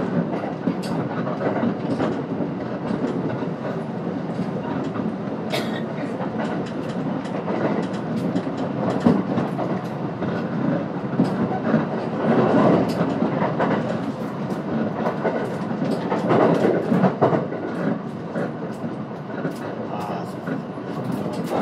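Running noise heard inside a JR West 521-series electric train at speed: a steady rumble of wheels on rail with scattered clicks of the wheels passing over rail joints. It swells louder for a moment around the middle and again a few seconds later.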